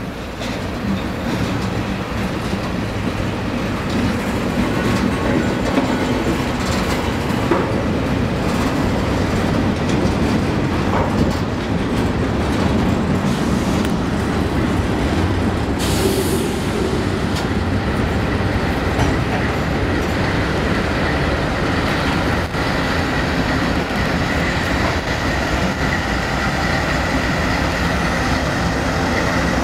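Freight train passing close: the rumble and clickety-clack of tank cars and hoppers rolling over the rails, growing louder over the first few seconds. Canadian Pacific GE diesel locomotives then pass in the consist, and a steady high whine joins about two-thirds of the way in.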